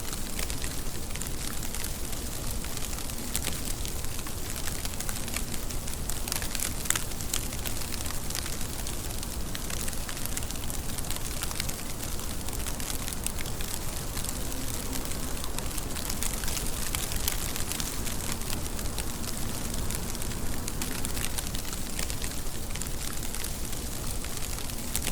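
Steady rain falling, with a dense, even crackle of drops pattering on a surface.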